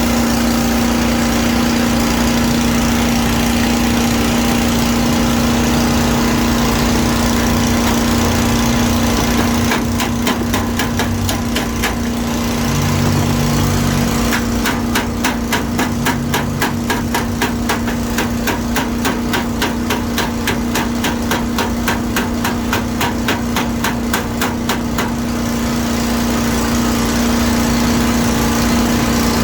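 Body hammer tapping rapidly and evenly on a car's sheet-metal panel to work out a dent, about four taps a second, in a short run about ten seconds in and a longer run of about ten seconds after that. A steady machine hum runs underneath.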